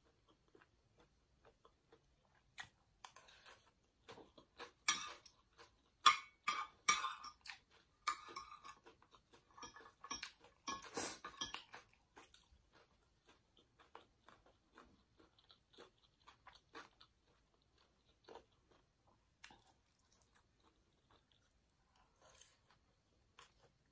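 Close-up chewing of a glass-noodle salad with shrimp, squid and pork roll: moist mouth clicks and crunching, busiest in the first half and sparser later.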